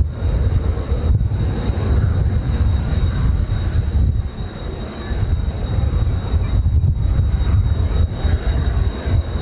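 Kawasaki T-4 jets of the Blue Impulse team flying, their engine noise mixed with strong wind gusting on the microphone as a heavy, uneven low rumble.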